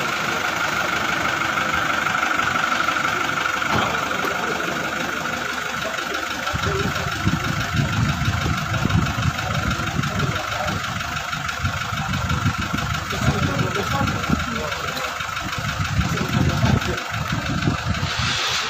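Toyota Hilux pickup's engine idling just after being started. Uneven low rumbling gets heavier from about six seconds in, and a steady high-pitched whine runs alongside.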